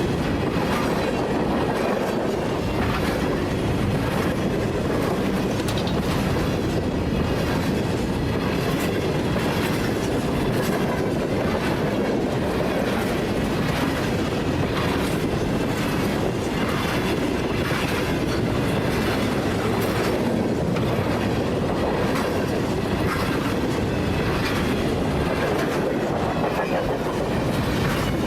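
Freight train cars rolling past at track speed, a steady rumble with the wheels clicking over rail joints again and again.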